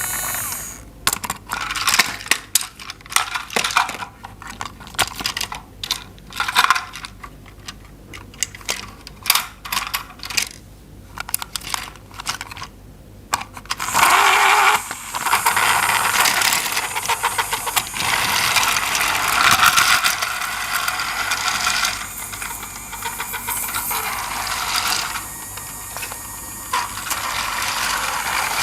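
Hard plastic toy parts clicking and clattering for about 14 seconds, then a steadier mechanical whirring from a toy train mechanism.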